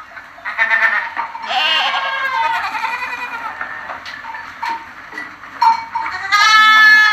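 Goats bleating: a long wavering bleat about one and a half seconds in, a few shorter, quieter calls, then a loud bleat near the end.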